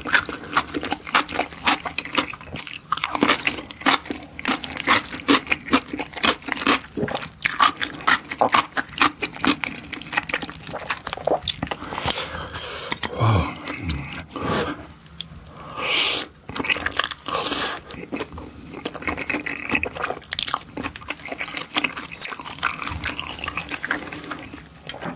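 A person eating spicy tteokbokki rice cakes and glass noodles close to the microphone: a dense run of wet chewing, smacking and squelching clicks, with a few louder wet mouth sounds in the middle.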